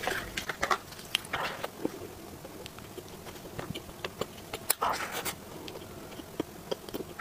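Close-miked eating of a flaky-pastry mooncake: scattered small crackles and clicks of chewing and of the crust breaking, with a slightly louder cluster about five seconds in.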